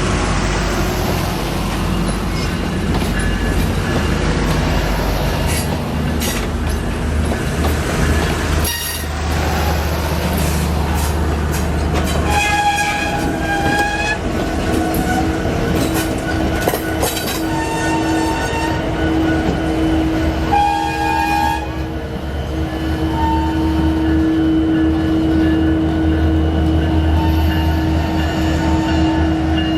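A train running with a steady deep engine hum, its horn sounding several short blasts from about the middle onward.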